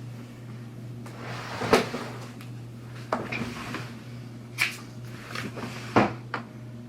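Several separate knocks and clunks of things being handled, about five in all and spaced a second or so apart, some with a brief rustle, over a steady low hum.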